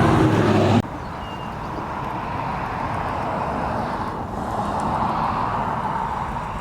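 A low hum that cuts off abruptly just under a second in, then a steady rushing noise that swells gently and eases off near the end.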